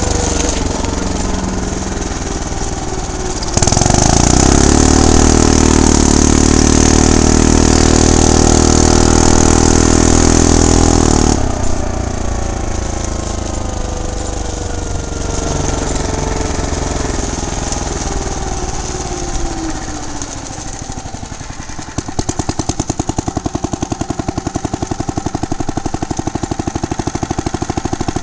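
Small petrol engine of a motorized bicycle, running under way. About three and a half seconds in it is opened up and revs high and loud for about eight seconds, then it is eased off and the revs fall slowly. Near the end it settles into a fast, even putter at lower revs.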